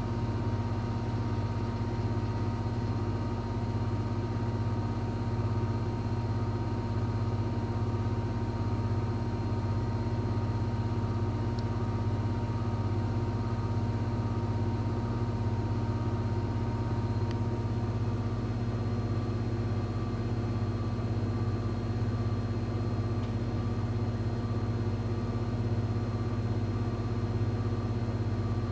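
Electrolux washing machine running steadily with a low motor hum. A faint high whine over it stops about two-thirds of the way through.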